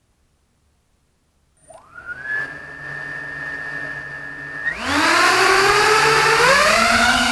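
QAV280 quadcopter's 1806 2400kv brushless motors spinning up: a whine comes in about a second and a half in and holds steady at idle. Then, just before five seconds in, it climbs in pitch and grows much louder as the throttle comes up, and it steps up again near the end.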